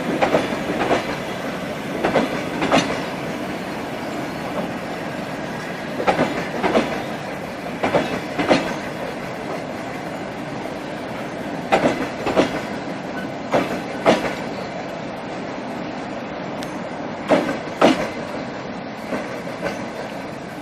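Passenger train rolling slowly past, its wheels clacking over a rail joint in double beats, a pair of clacks every two to four seconds, over a steady rumble of the carriages.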